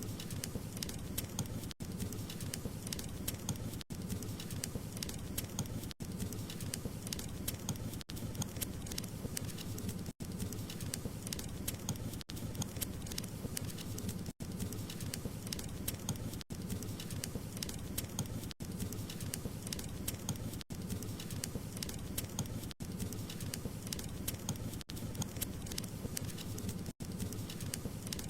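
Wood fire crackling: dense small pops and snaps over a low steady rumble, with a brief dropout about every two seconds.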